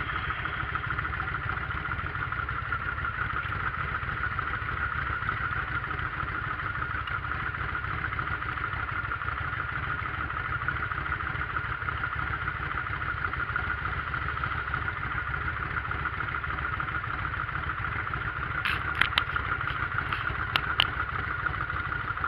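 Motorcycle engine running steadily, with a constant hum and a low rumble, and a few sharp clicks near the end.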